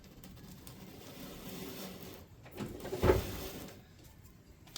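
Quiet handling and rustling noises, then a single sharp knock about three seconds in, with a lighter one just before it.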